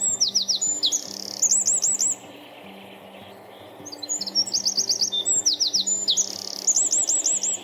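Eurasian wren singing: a loud, fast, high-pitched song of rapid trills and rattles. One song ends about two seconds in, and a second song starts about four seconds in.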